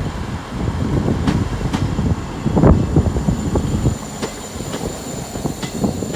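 Class 159 diesel multiple unit running past: a steady low diesel rumble, with irregular sharp clicks and knocks from the wheels on the track.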